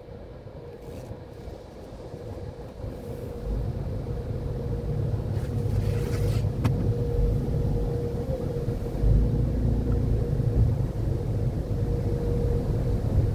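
AVW car wash tunnel equipment running: a low rumble that builds and grows louder from about three and a half seconds in, over a steady hum. A brief hiss comes about six seconds in, followed by a sharp click.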